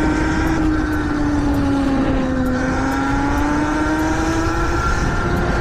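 Electric dirt bike's motor whining steadily while riding, its pitch dipping slightly in the middle and rising again with speed, over heavy wind rumble on the microphone.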